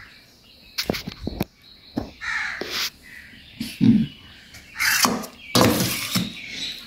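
Several harsh bird calls, crow-like caws, around the middle and again near the end, over a few sharp clinks of a spoon against a steel mixing bowl about a second in.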